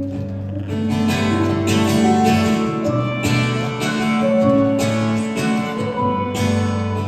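Live acoustic pop-rock music: a short instrumental passage between sung lines, with chords struck every second or two and held.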